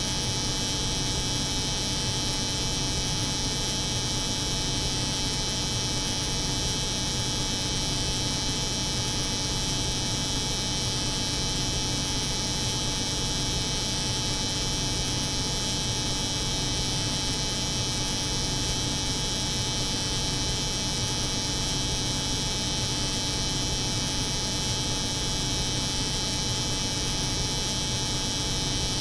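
Steady, unchanging layered drone of a cold room's refrigeration hum mixed with the buzz of an electric hair clipper running continuously.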